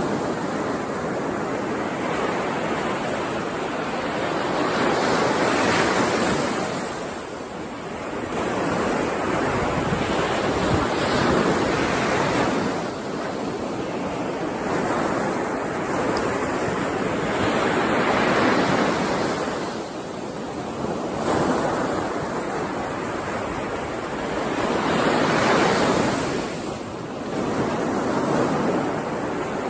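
Ocean waves washing onto a shore: a continuous rush of surf that swells and falls back about every six seconds.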